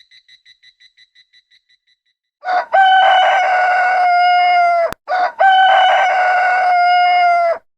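A rooster crowing twice, two long loud crows one after the other. It follows a brief run of rapid high chirps that fades out in the first two seconds.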